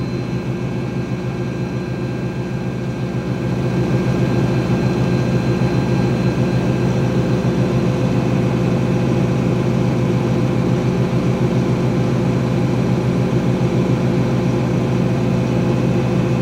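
2006 GE Profile top-loading washer spinning, with a steady motor and drum hum, before its rinse fill. The hum gets louder about three and a half seconds in, then holds steady.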